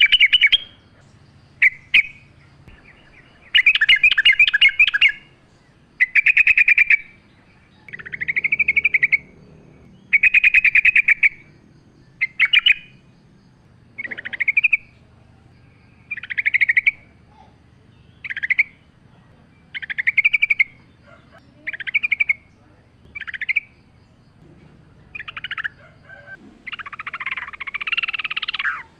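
Yellow-vented bulbul (trucukan) singing: a run of short, bubbly chirping phrases, one every second or two, with a longer, fuller phrase near the end.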